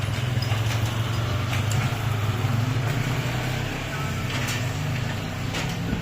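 Steady low engine rumble, like a motor vehicle running close by, with faint bird chirps over it.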